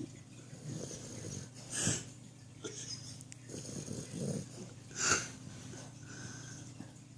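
Sleeping Yorkshire Terrier snoring, with two louder snoring breaths, one about two seconds in and one about five seconds in, and softer breaths between.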